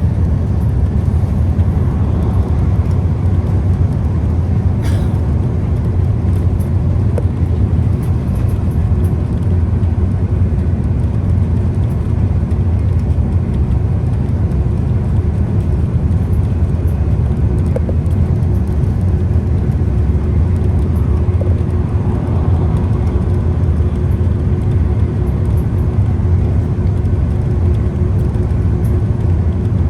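Scania Citywide CK320UB city bus under way: a steady, even engine and road rumble with no change in pace. A faint steady whine joins above it about halfway through, and there is a single click about five seconds in.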